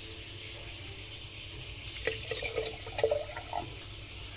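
Water pouring steadily into a dishwasher's salt reservoir to fill it up, with a few short gurgles about halfway through as it fills.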